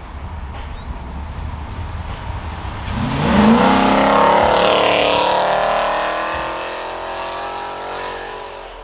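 Cammed 2016 Dodge Challenger R/T's HEMI V8 with long-tube headers driving by: a low rumble, then about three seconds in a hard acceleration with the engine note rising, getting loud as the car passes, then dropping in pitch and fading as it goes away.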